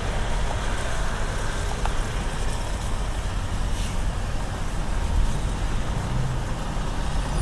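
Diesel engines of heavy-haul semi trucks running with a steady low rumble.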